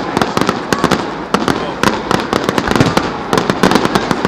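Fireworks display: rapid, irregular bangs and crackles of many shells bursting close together, with no let-up.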